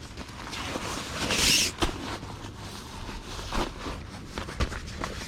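Rustling and scraping of camping gear being handled, with scattered clicks and one louder scraping hiss about a second and a half in.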